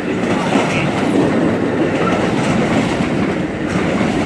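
Northbound Amtrak passenger train passing close by: a loud, steady rumble of wheels rolling over the rails as the cars go past.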